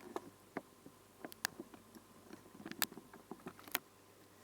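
Scattered small clicks and taps with light rustling from hands handling the TV's boards, cables and plastic parts during reassembly, the sharpest clicks about a second and a half in, near three seconds and near the end.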